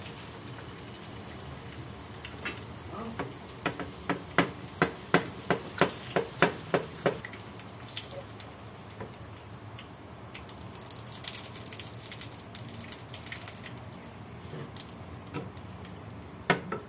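Pastéis deep-frying in hot oil in a frying pan, a steady sizzle. A few seconds in there is a quick run of about a dozen sharp taps, about two to three a second, and there is a single louder knock near the end.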